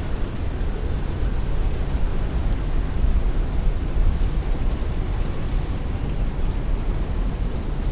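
Heavy rain hitting a window with strong wind, a steady dense rush over a deep rumble.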